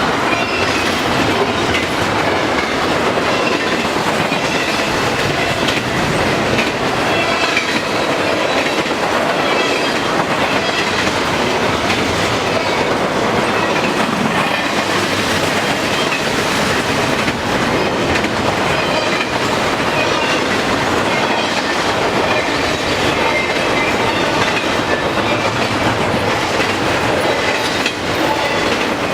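Freight train cars rolling past close by: a steady clatter of steel wheels over the rail joints, with faint high squeals from the wheels.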